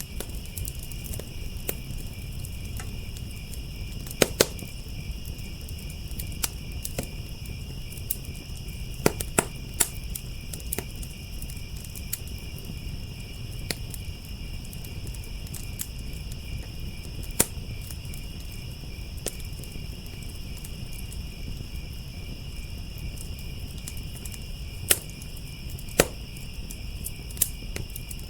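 Wood fire crackling with scattered sharp pops, a handful of them loud snaps, over a steady, unbroken chorus of crickets trilling.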